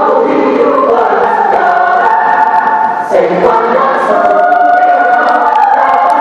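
Student choir singing held chords in several parts, with a short break between phrases about three seconds in.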